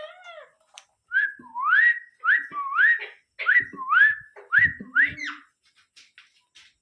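Indian ringneck parrot whistling: a run of about six quick rising whistles, each sliding up and then held briefly, followed by a few faint clicks.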